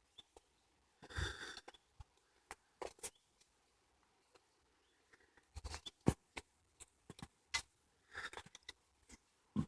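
Footsteps crunching on a woodland path, coming irregularly, with near silence between them.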